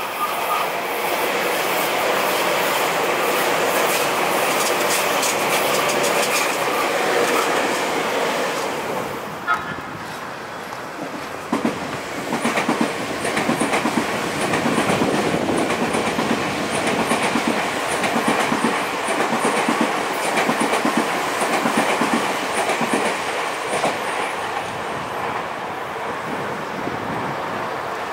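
Electric trains passing through a station, the wheels clattering rhythmically over the rail joints. One passage ends about nine seconds in with a short high squeal, and another train's clatter builds up a few seconds later.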